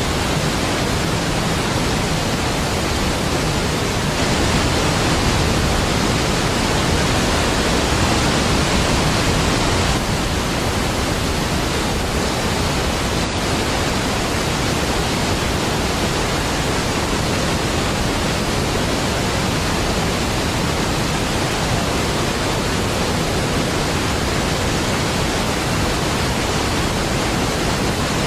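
Niagara Falls, a large waterfall, pouring in a steady, deep rush of water.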